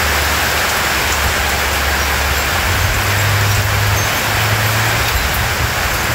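Heavy rain falling steadily, with a low steady hum underneath that shifts up in pitch about two and a half seconds in.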